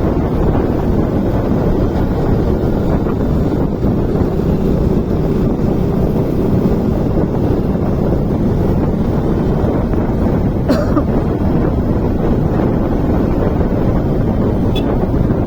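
Steady, loud wind rush buffeting the microphone of a moving motorcycle, with the bike's running and road noise underneath; a couple of faint clicks late on.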